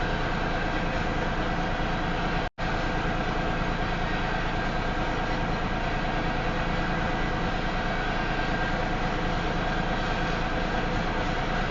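Railroad hopper cars of a Union Pacific freight rolling past slowly, a steady rumble of steel wheels on the rails. The sound cuts out completely for a moment a couple of seconds in.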